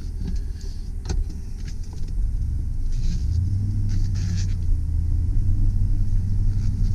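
2005 Chevy Silverado 2500 HD pickup running in four-wheel high, heard from inside the cab: a low engine and drivetrain rumble that grows louder and steadier from about three seconds in. A single sharp click sounds about a second in.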